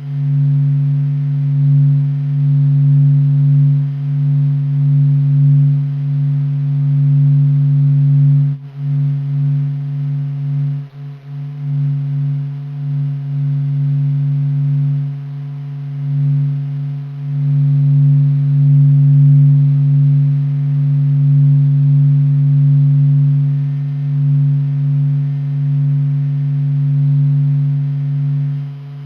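Sonified Sun: solar surface oscillations made audible as a low, steady humming drone, one main tone with fainter overtones, slowly swelling and fading in loudness.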